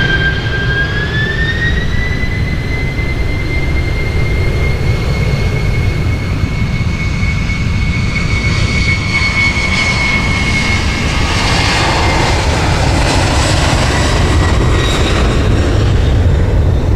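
Jet airliner engines: a high whine that rises in pitch over the first two seconds and then holds, over a steady low rumble. The whine fades about twelve seconds in while the rumble carries on.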